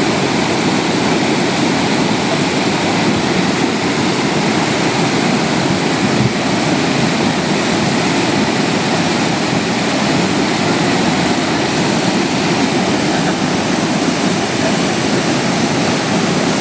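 Floodwater rushing down a swollen hill stream: a loud, steady rush of water that does not let up.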